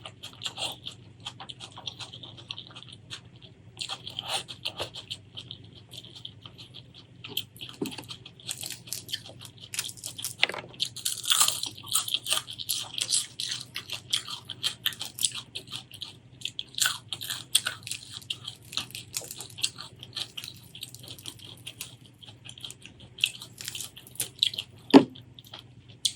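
Close-miked eating: irregular crunching, biting and chewing of food, busiest in the middle, with one sharp click near the end.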